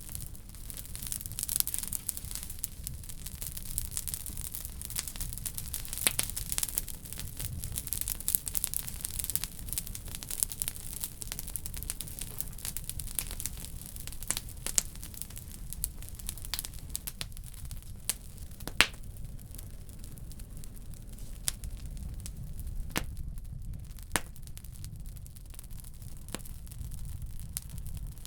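Wood fire burning in a wood stove, crackling steadily with frequent sharp pops and a few louder snaps in the second half, over a low steady rumble.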